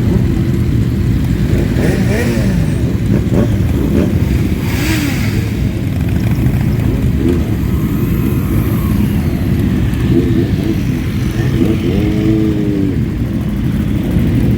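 Many motorcycles riding past in a procession, a dense, steady engine rumble of several bikes at once, with individual riders revving so the pitch climbs and drops, most clearly about twelve seconds in.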